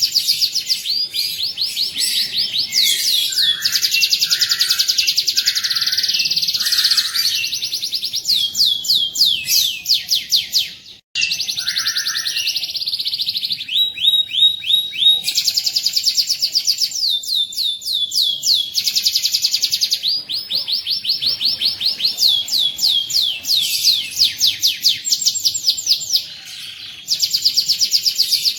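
Domestic canary singing a continuous song of rapid rolling trills, fast runs of repeated high notes that change from one phrase to the next. The song breaks off briefly about eleven seconds in.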